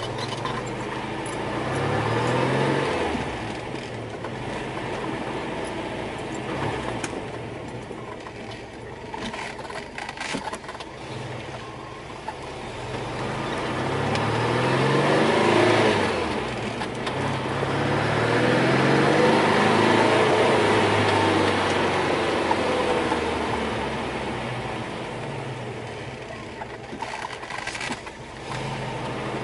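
Porsche 914's air-cooled flat-four engine pulling the car on the road, revving up and dropping back several times as it accelerates and changes gear, loudest in two long climbs in the middle.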